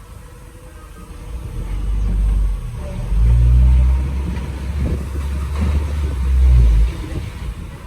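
Diesel engine of heavy earthmoving machinery revving up under load: a deep rumble that builds about a second and a half in, stays loud for several seconds, then drops off sharply near the end.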